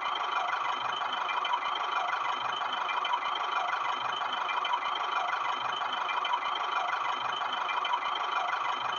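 A toy tractor running: a steady, even engine-like drone with no change in speed.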